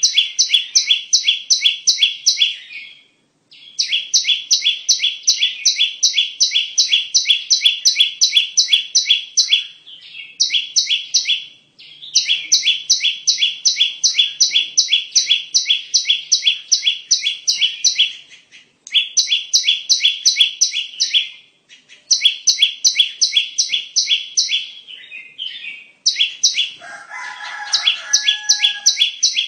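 Bar-winged prinia (ciblek) calling, the lure call used to trap the species: bouts of rapid, sharp, high notes at about four a second, each bout lasting a few seconds with short pauses between. A lower call overlaps briefly near the end.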